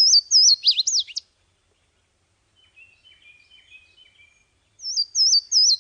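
Songbird singing a short phrase of about four quick, repeated slurred high notes ending in two lower sweeping notes, once at the start and again near the end. Between the phrases a fainter, lower twittering from a second bird.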